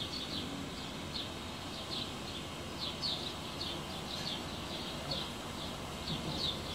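Small birds chirping: short high chirps repeating irregularly, about two a second, over a low steady background noise.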